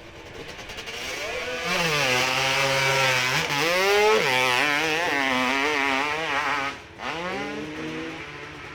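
A motorcycle engine at high revs on a hill-climb run. The revs rise, then hold and waver up and down with the throttle. About seven seconds in they drop briefly, then pick up again.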